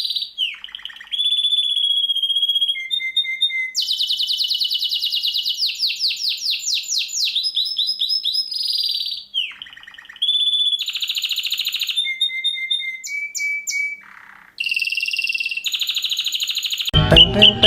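Songbird singing in bursts of high, piercing whistles and very fast repeated trills, with short gaps between phrases. This is the rapid 'tembakan' style of song played as masteran to teach competition birds. Music with a bass line comes in near the end.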